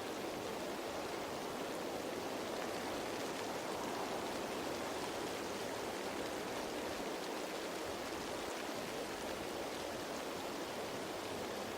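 Steady rain falling on leaves: an even, unbroken hiss with no single drops standing out.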